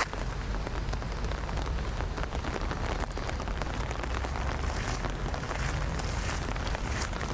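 Steady rain falling, a dense patter of many small drops, over a low rumble.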